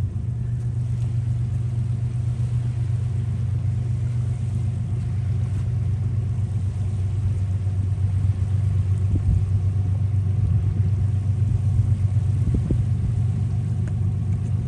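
Diesel train locomotive running at a distance, a steady low rumble with an engine hum that grows a little louder past the middle.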